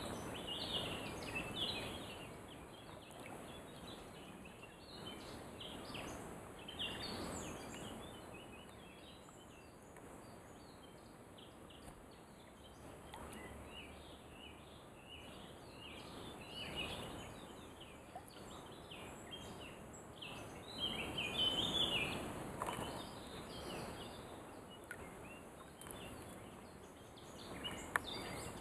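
Birds chirping in many short calls over a faint, steady outdoor hiss.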